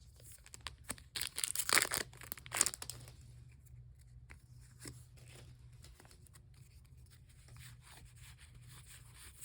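Foil booster-pack wrapper torn open and crinkled in a few loud rustling bursts over the first three seconds, then quieter light handling with faint scattered clicks.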